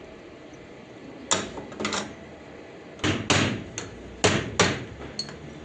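A run of about eight sharp, irregular knocks and clanks over about four seconds, each dying away quickly.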